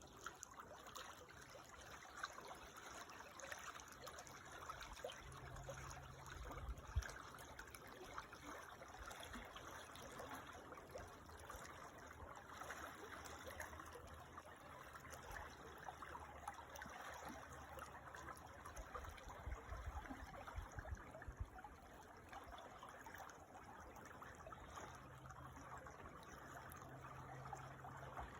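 A creek trickling and babbling faintly and steadily, with occasional low rumbles underneath.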